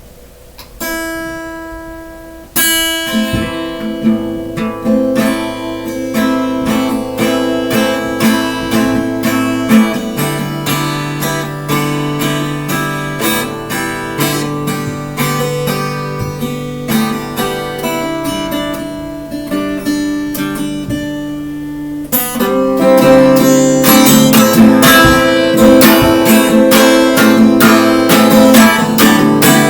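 Acoustic guitar played solo: a few single ringing notes, then steady picking from a couple of seconds in, getting louder and fuller with strumming from about 22 seconds in.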